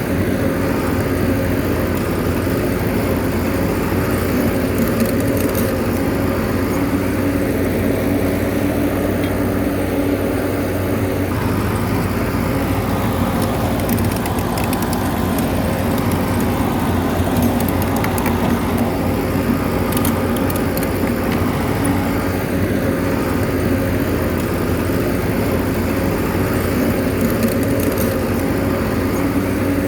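Bulldozer's diesel engine running steadily at an even speed, with a few faint clicks now and then.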